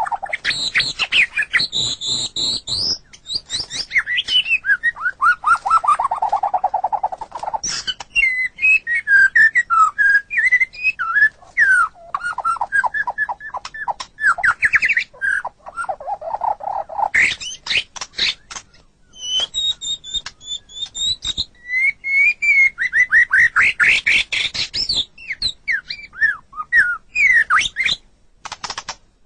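White-rumped shama (murai batu) singing a long, varied song: fast runs of whistled notes, rapid trills and sweeping glides, without a break.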